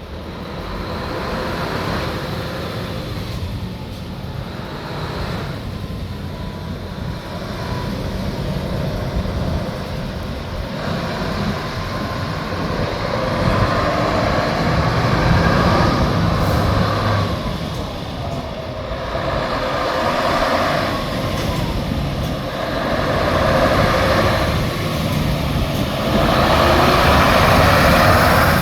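Scania 144G 530's 14-litre V8 diesel running, its note rising and falling in swells every few seconds and growing louder towards the end.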